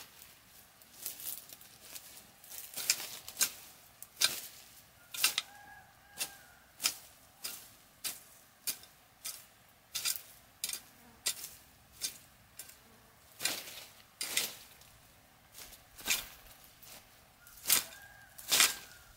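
A long run of sharp snaps or knocks, roughly one or two a second and uneven in loudness, with a faint short whistle twice.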